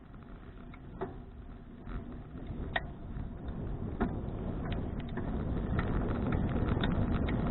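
Wind rumbling on the microphone of an action camera on a moving bicycle, growing steadily louder in the second half as the ride picks up speed. Scattered sharp clicks and knocks, about one a second, run through the first half.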